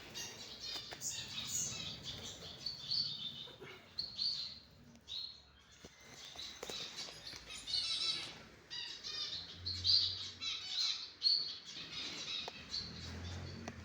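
Small caged finches, zebra finches and society finches, chirping busily with many short, rapid calls.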